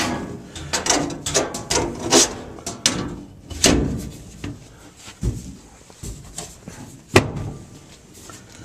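Furnace blower-compartment door being fitted back onto the cabinet: a string of knocks and rattles, the sharpest about seven seconds in.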